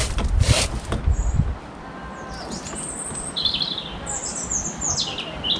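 Low rumbling handling noise with a couple of sharp rustling knocks for the first second and a half. After that, a small bird chirps several short, high phrases.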